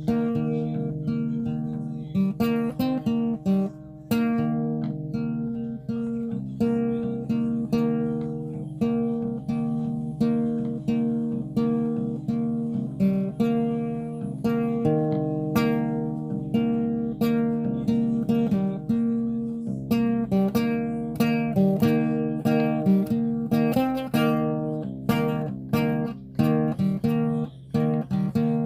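Acoustic guitar played solo, a steady run of plucked and strummed notes.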